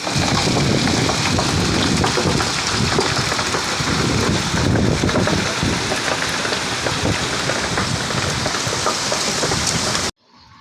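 Heavy rain pouring down, a loud steady hiss that cuts off suddenly about ten seconds in.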